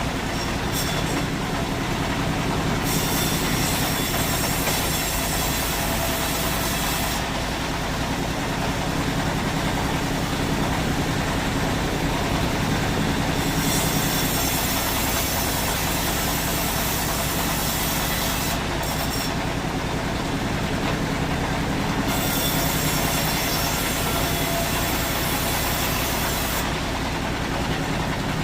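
Sawmill machinery running steadily, with a high hiss that comes and goes in stretches of several seconds.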